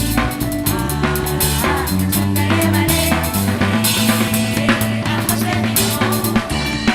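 Live band playing, led by a drum kit with kick and snare hits over sustained bass notes and other pitched instruments.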